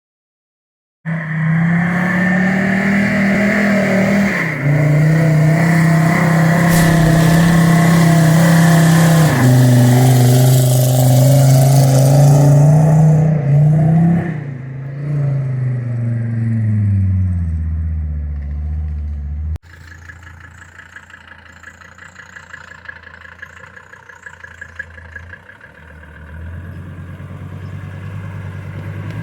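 VW Golf II Country 4x4's engine running under load, its pitch rising and falling as it is driven, then dying away. About two-thirds through the sound cuts suddenly to a much quieter engine running at low revs.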